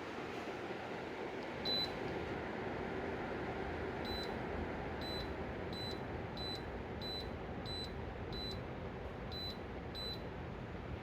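Friedrich split air conditioner beeping: about ten short, high electronic beeps, one alone and then a run spaced about two-thirds of a second apart, over a steady rushing hum.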